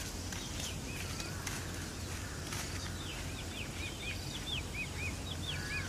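A bird chirping outdoors: scattered short high notes at first, then a quick run of chirps, several a second, through the second half, over a steady low background hum.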